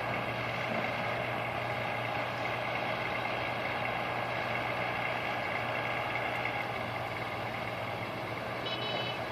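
Fire engine's diesel engine running steadily at a constant speed while its crew hoses down a vehicle fire, with a short faint high beep near the end.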